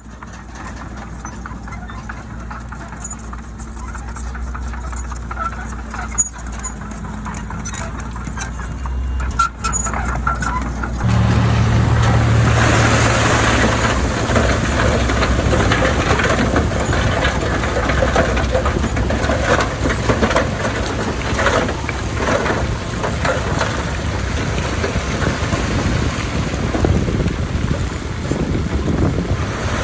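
Heavy diesel engine of earthmoving machinery running steadily, then abruptly much louder about eleven seconds in, with a rough, clattering noise of the machine working.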